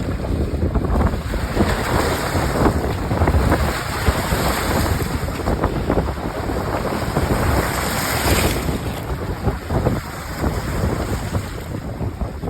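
Big waves breaking and washing onto a lake shore, with strong wind buffeting the microphone. A brighter hissing wash builds about four seconds in and cuts off at about eight and a half seconds.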